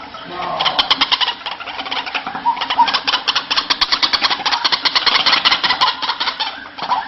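White-breasted waterhen (ruak-ruak) calling: a fast, rattling run of notes, about eight to ten a second, easing off near the end.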